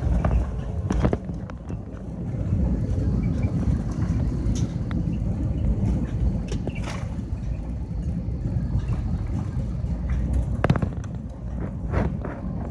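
Steady low rumble inside the cabin of an Airbus A320, with scattered knocks and rattles.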